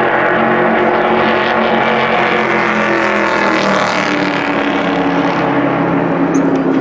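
Stock race car's V8 engine running loud and steady; its note drops about halfway through, as the car comes off the throttle, then holds at a lower pitch.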